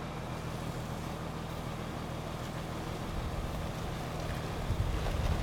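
Steady drone of a fire truck's engine running at the fireground. Low, uneven rumbling from wind gusts on the microphone grows stronger in the second half.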